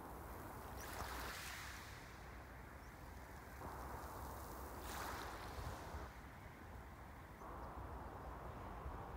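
Sea waves washing in on the shore, a surge of surf about a second in and another about five seconds in, over a steady background of sea noise.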